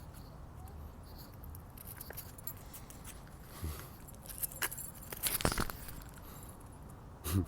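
A dog moving about: scattered rustles, clicks and light jingling, busiest between about four and six seconds in, then a short thump near the end.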